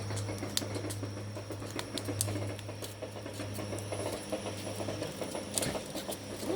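Wood fire crackling, with irregular sharp pops scattered through it over a low steady hum.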